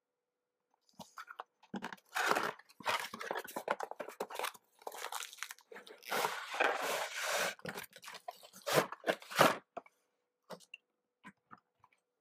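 A toy box being opened and its packaging handled, with irregular rustling, crinkling and tearing for several seconds, then a few light clicks near the end.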